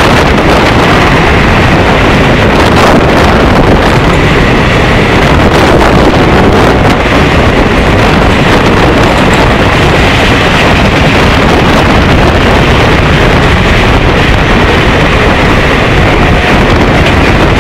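Steady loud rush of a train running at speed, heard from an open coach doorway, with wind buffeting the microphone.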